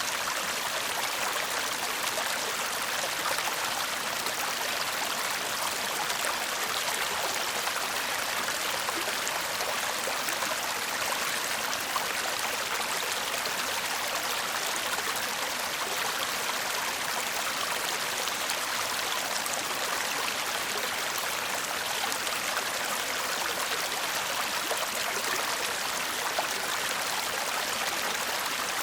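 A small brook babbling steadily, a constant rushing and trickling of water that holds an even level throughout.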